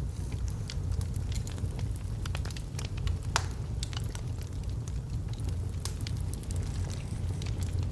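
Log fire burning in a fireplace: a steady low rumble of flames with scattered sharp crackles and one louder pop about three and a half seconds in.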